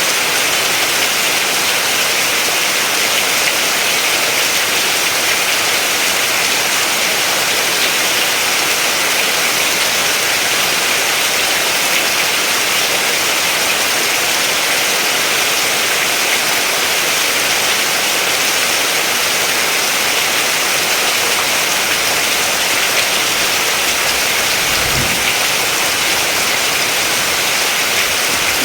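Steady rain falling, an even hiss that holds at one level throughout, with a brief low thud near the end.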